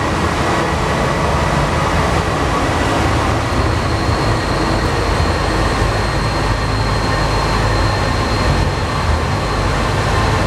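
Alstom NS-93 rubber-tyred metro train running steadily, with a constant loud rumble. A faint high whine joins in about three and a half seconds in and fades out about eight seconds in.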